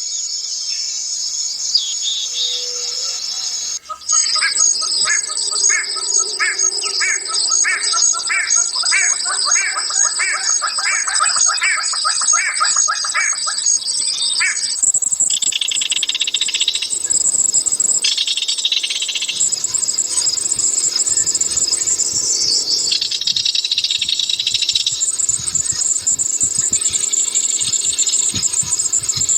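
Forest birds calling over a steady high-pitched insect chorus. From about four seconds in, one caller gives a rhythmic series of repeated notes that quickens over about ten seconds, followed by scattered chirps and calls.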